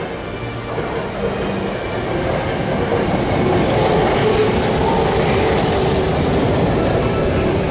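Electric commuter train running past on the tracks, growing louder over the first few seconds and then holding steady.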